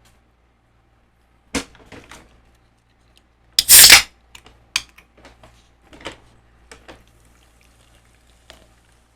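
Close-miked eating sounds from a seafood meal: a sharp crack about a second and a half in, a loud wet burst a little before the middle, then a string of smaller clicks and smacks.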